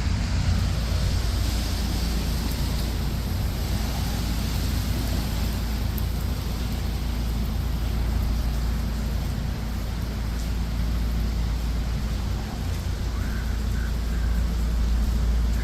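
Steady rain-soaked city street noise: a constant low traffic rumble under the hiss of rain.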